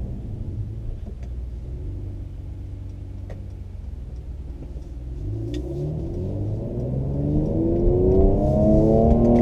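2017 Mercedes-AMG C43's twin-turbo V6 through its performance exhaust, heard from inside the car: the engine runs steadily at low revs, then from about five seconds in accelerates hard, its pitch and loudness climbing steadily.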